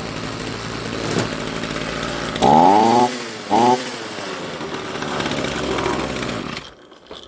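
Ryobi RBC254 strimmer's small two-stroke engine running off choke, now running cleanly after repair. It is revved up twice, with a rising-then-falling pitch, about two and a half and three and a half seconds in, and is shut off near the end.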